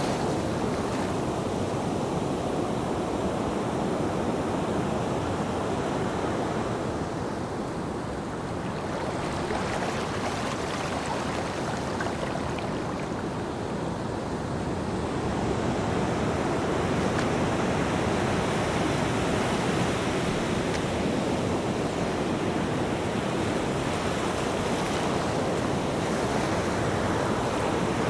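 Ocean waves breaking and washing on a beach: a continuous surf roar that swells and eases slowly, falling back in the middle and building again in the second half.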